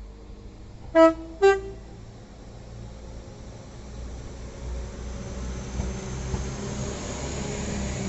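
A train horn sounding two short blasts about a second in, the second a little higher in pitch, then a train rumbling, growing louder toward the end.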